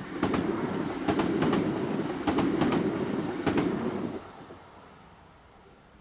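ZSSK class 660 passenger train rolling over the level crossing, its wheels clacking over rail joints in quick pairs, one pair per bogie, over a steady rumble. The noise starts sharply and falls away after about four seconds.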